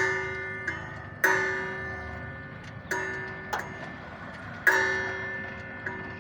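Hammer blows on metal: four hard strikes at uneven intervals, with lighter taps between them, and each strike rings like a bell before it fades.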